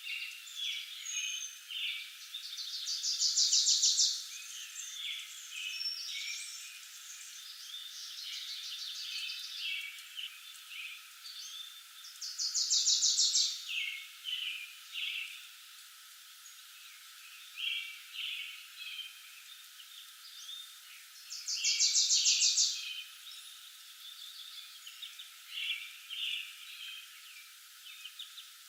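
Several birds singing in woodland, with many short chirps and phrases over a steady background hiss. A loud, high, rapid trill about a second long comes three times, about nine seconds apart.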